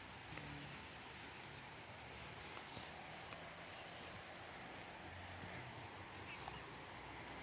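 Insects chirring in a steady, unbroken high-pitched drone over faint outdoor background noise.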